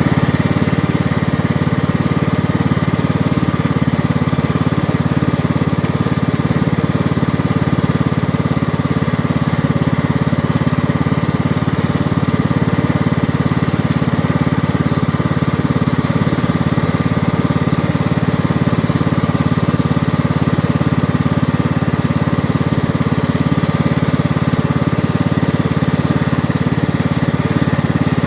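John Deere riding lawn tractor's 540cc 18 hp engine running steadily under way, with a thin steady whine above the engine note.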